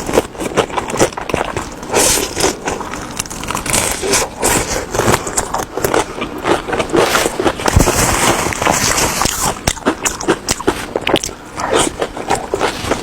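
Chewing and crunching fried skewers (zha chuan'r): a dense, irregular run of crackling bites.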